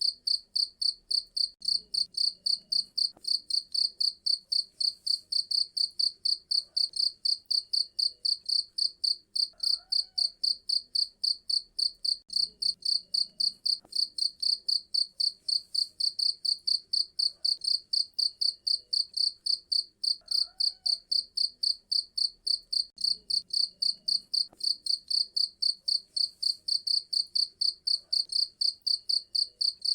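A cricket chirping in a rapid, even train of high-pitched chirps, several a second, steady and unbroken.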